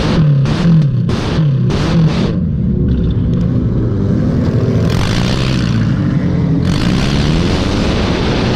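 Race car engine revving up and down under hard driving, with choppy pulses in the first two seconds and a loud rushing noise coming in about five seconds in.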